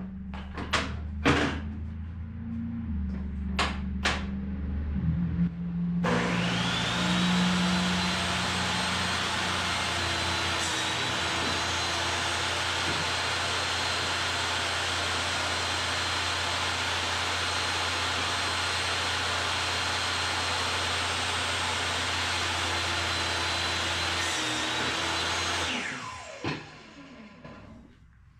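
A power tool's electric motor starts about six seconds in, runs steadily with a high whine for about twenty seconds, then winds down after it is switched off. A few sharp clicks and a low hum come before it starts.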